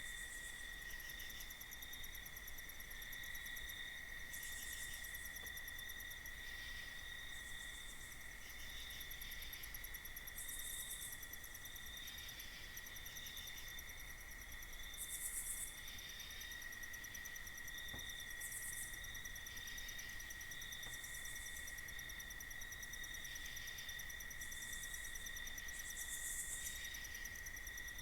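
Night-time insect chorus of crickets: a continuous high-pitched trill, with short, higher, buzzy insect calls breaking in every second or two.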